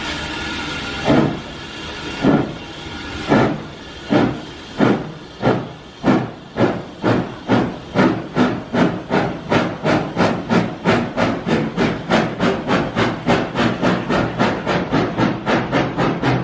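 Steam locomotive pulling away: a steady hiss of steam, then exhaust chuffs starting about a second in, slow at first and speeding up steadily as the engine gathers speed.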